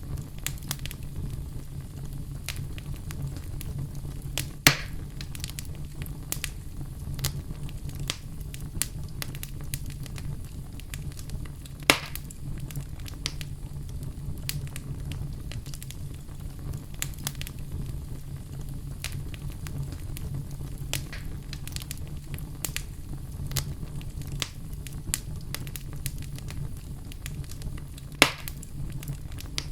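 Campfire crackling: a steady low rumble of burning under frequent small snaps and pops, with three sharper, louder pops spread through.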